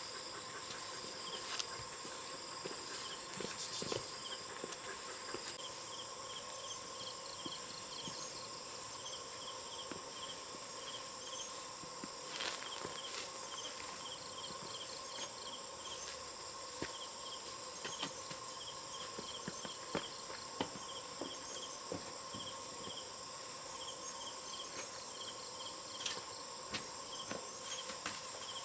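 Steady insect chorus: several unbroken high-pitched drones with groups of short, evenly repeated chirps running over them. Scattered light clicks and taps come through here and there.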